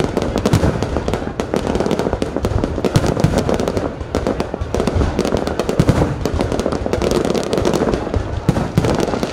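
Fireworks display: a continuous, dense volley of rapid bangs and crackles with deep booms underneath, with no pause.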